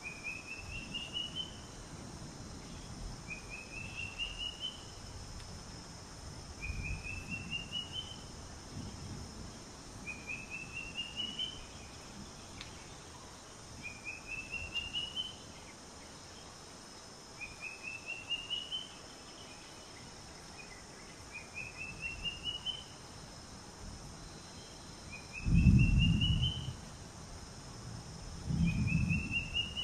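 A bird calling a short rising run of quick notes, repeated about every three and a half seconds, over a steady high insect hiss. Near the end come two low rumbles, each about a second long, louder than the calls.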